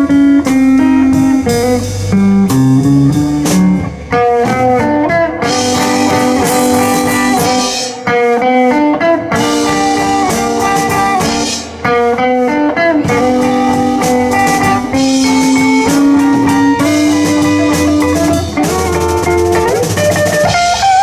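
Live blues band playing an instrumental break, a guitar taking the lead over drum kit and bass.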